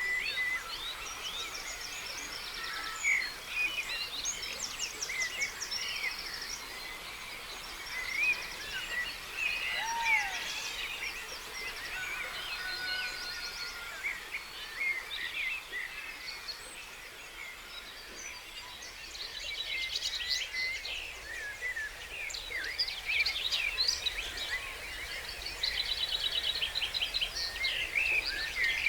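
Dawn chorus of several songbirds singing at once, with rapid trills and short whistled and chirped phrases overlapping throughout, over a faint steady hiss.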